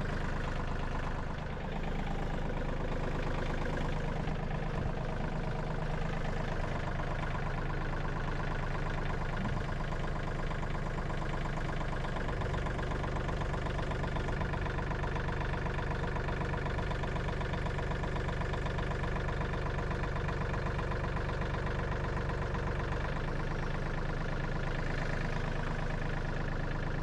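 Tractor engine running steadily at a constant speed. The depth of its low drone shifts about 12 seconds in and changes back about 23 seconds in.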